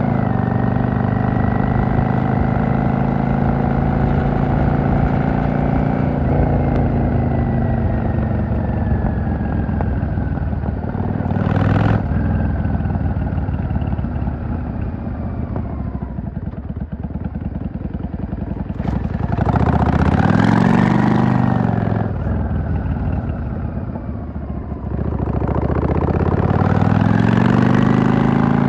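V-twin cruiser motorcycle engine under way: it holds a steady speed, then winds down as the throttle is rolled off. Later it accelerates twice, louder and rising in pitch, once about two-thirds of the way through and again near the end.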